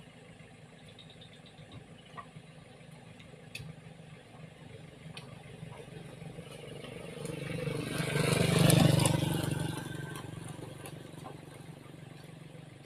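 A motor vehicle passing by: it grows louder, is loudest about nine seconds in, then fades away, over a steady low engine hum.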